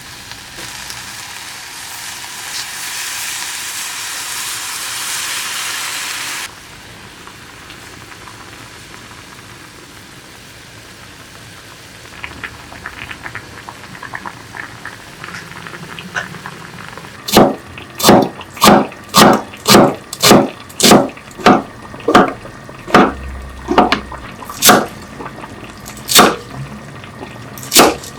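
Kitchen knife chopping on a cutting board: a run of loud, even chops about two a second through the last third. Before it, a steady hiss for the first six seconds or so, then quiet kitchen handling with small clicks.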